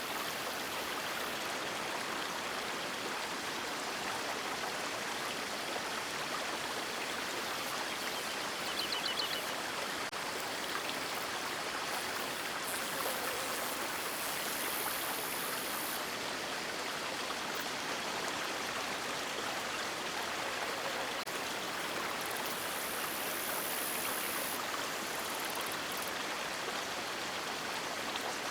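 River water flowing, a steady even rush that does not change.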